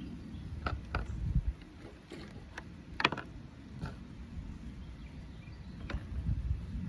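A few light clicks and knocks of hardware being handled while a small hinge is fitted to a wooden frame, the sharpest about three seconds in, over a low steady rumble.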